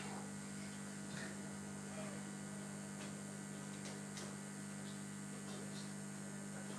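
Steady electrical mains hum from the live amplification, with a few faint clicks.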